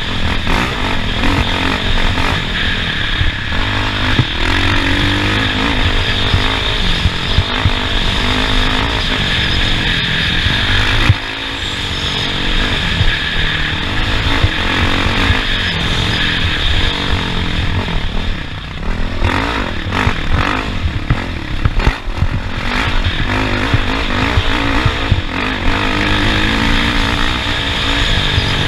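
Off-road racing vehicle's engine at full effort over a rough track, revving up and falling back again and again with gear changes and throttle lifts, over rattles and knocks from the terrain. The throttle drops off sharply about eleven seconds in.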